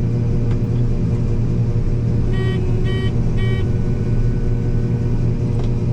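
Combine harvester engine running steadily, heard from inside the cab as a constant low drone. About two seconds in come three short electronic beeps, evenly spaced about half a second apart.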